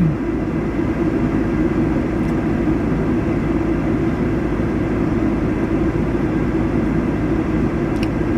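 Steady low rumble of a vehicle engine idling, with faint ticks near the end.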